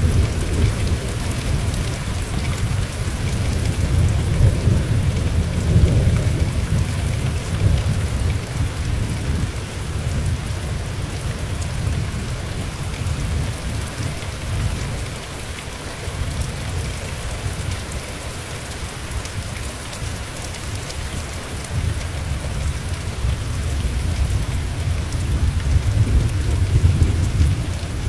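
Steady rain pattering, with a continuous hiss, under a deep rolling rumble of thunder that swells over the first several seconds, eases, and builds again near the end.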